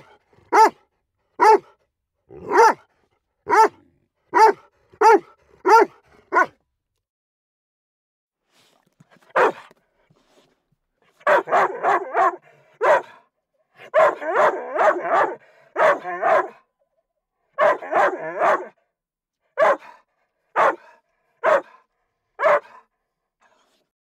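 A dog barking: a run of single sharp barks about one a second, a pause of about three seconds, then bursts of quick barks packed close together, and spaced single barks again near the end.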